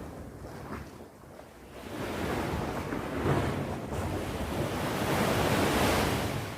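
Sea waves on the shore: a short lull, then about two seconds in a wave rushes in, a swelling wash of surf that falls away near the end.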